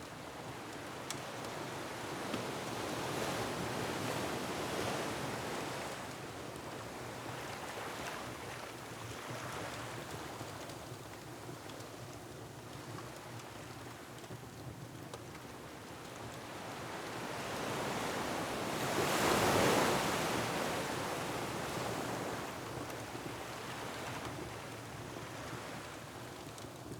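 Ocean waves surging in and breaking on a rocky shore under a steady wind, rising and falling in slow swells; the largest wave builds and breaks about two-thirds of the way through. Faint crackles of a wood fire sound now and then.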